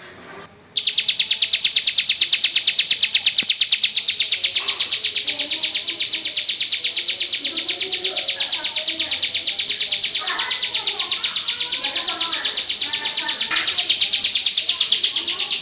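Bar-winged prinia (ciblek) giving its long 'ngebrend' call: a loud, rapid, very even, high-pitched rattling trill that starts about a second in and runs on unbroken.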